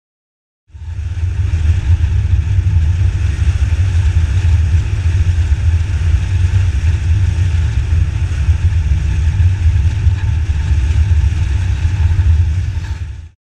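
Motorcycle running at a steady riding speed: a steady low rumble that fades in about a second in and cuts off just before the end.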